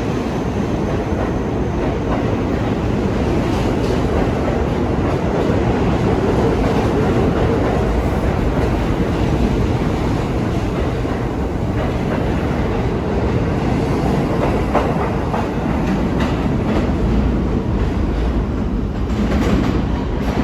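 New York City subway train running on the rails, making a steady, loud noise that does not let up.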